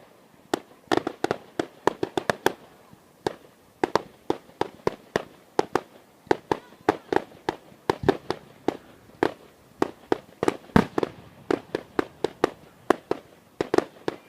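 Fireworks going off in a rapid, irregular volley of sharp bangs, several a second, with one bang louder than the rest about three-quarters of the way through.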